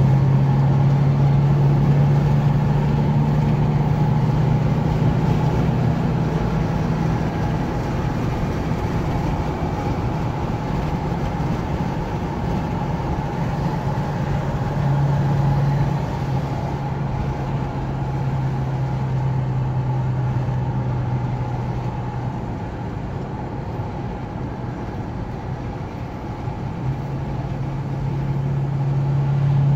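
Car engine droning at steady cruising speed over tyre and road noise, heard inside a moving car's cabin; the drone eases off about three-quarters through and swells again near the end.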